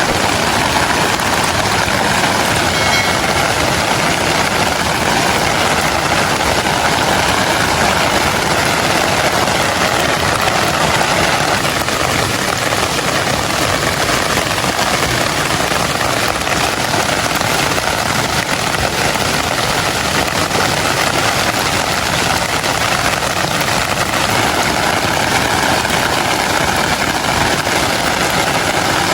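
Steady, loud rushing water noise from heavy rain and flash-flood water, even throughout with no pauses.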